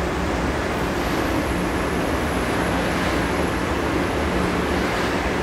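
Talgo T350 high-speed train rolling past: a steady running rumble and hiss with a low hum underneath.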